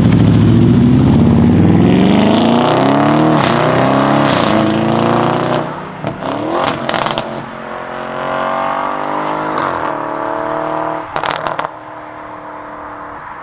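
A modified car's engine revving hard as it accelerates away, its pitch climbing over several seconds, then dropping and climbing again, with a few sharp cracks along the way. It is loudest at first and fades near the end.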